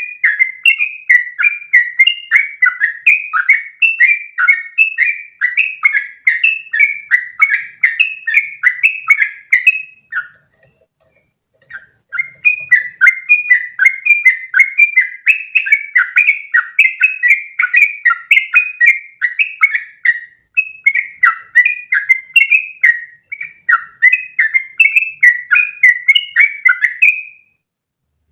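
Yellow-vented bulbul (trucukan) singing long, rapid runs of chirping notes, about three a second. There is a pause of about two seconds partway through and a brief break later, and the song stops shortly before the end.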